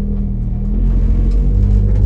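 Race car engine running under way, heard from inside the cabin: a very noisy, steady low drone with a brief dip about one and a half seconds in.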